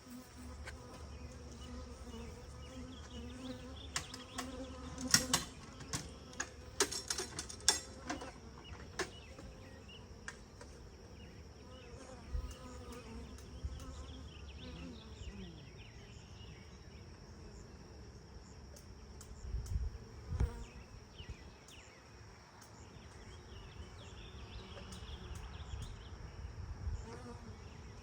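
Honeybees buzzing around an open hive, a steady hum that fades after about 15 seconds. A run of sharp clicks and knocks comes between about 4 and 8 seconds in, with a few more later.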